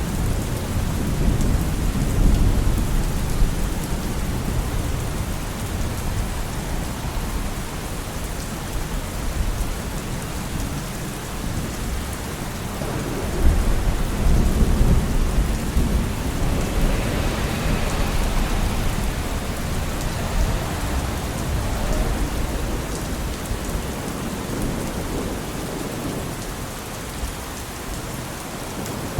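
Steady rain with low rumbles that swell and fade a few times, and a hissing swell a little past halfway, in a rain and traffic ambience at night.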